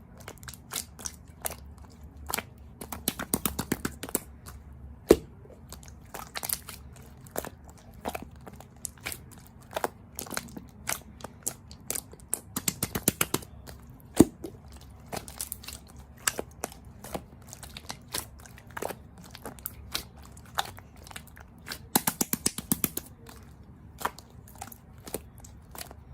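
Close-miked crunching made of many sharp clicks and crackles, with three dense runs of rapid crackling spread through the stretch.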